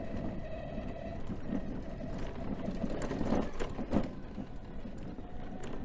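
Mobility scooter rolling along a park path: a rapid, steady rattle from the wheels and body with a faint motor whine, and a couple of louder knocks about three to four seconds in.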